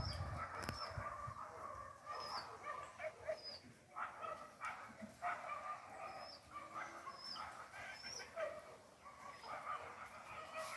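Mixed animal calls: short high bird chirps about once a second over a dense chatter of lower calls from birds or domestic animals.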